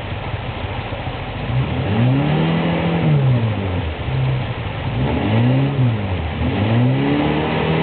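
A Suzuki 4x4's engine revving up and falling back three times while the vehicle stays stuck in the river, over the steady rush of river water.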